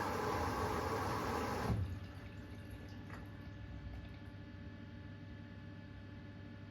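Constructa Energy washing machine filling with water for a cotton wash: the water rushes in, then cuts off suddenly about two seconds in as the inlet valve closes, leaving a quieter low hum.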